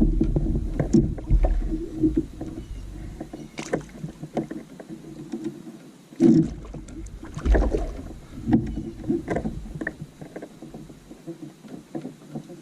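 Irregular knocks, bumps and handling sounds on a kayak as a large blue catfish is worked alongside to be lifted aboard by hand. The loudest thump comes about six seconds in.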